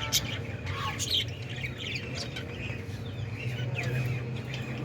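Budgerigars chirping and chattering in quick, continuous twitters and warbles, with a steady low hum underneath.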